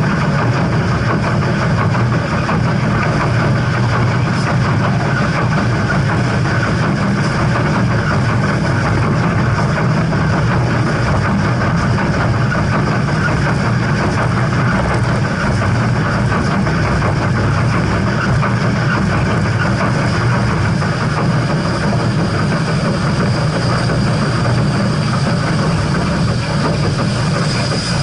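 Steam train: a loud, steady rumble and rattle with no breaks.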